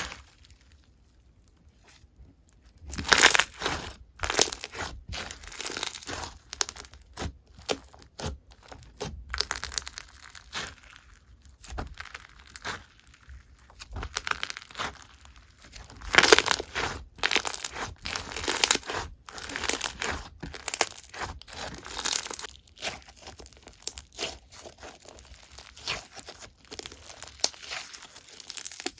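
Hands squishing and pressing slime, with irregular crackling, crinkling and crunching sounds in uneven bursts.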